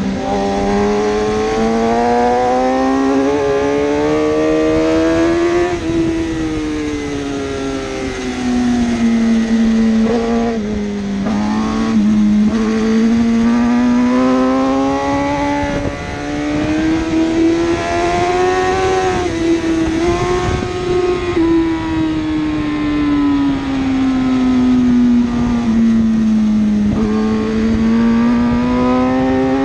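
1000cc superbike engine running hard and continuously, its pitch climbing and falling every few seconds as the bike accelerates and slows through the corners.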